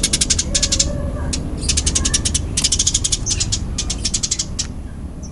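Eurasian tree sparrow giving its fighting call: fast, tightly packed runs of sharp chirps, about ten a second, broken by short pauses, over a low background rumble.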